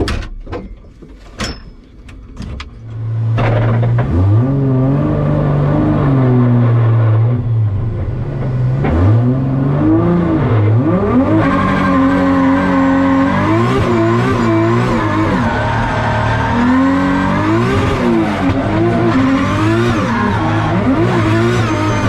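A few sharp clicks, then the drift-built Toyota GR Supra's engine comes in about three seconds in, running loud and steady. From about nine seconds on it is revved again and again, the pitch climbing and dropping in short rises and falls.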